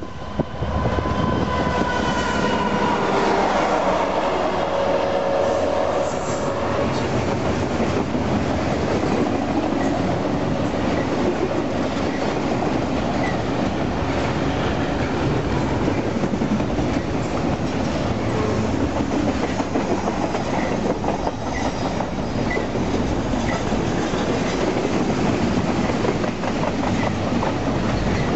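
Union Pacific freight locomotives pass close at speed, with a whine in their sound falling in pitch over the first few seconds. Then come the steady rumble and clickety-clack of a double-stack container train's well cars rolling by.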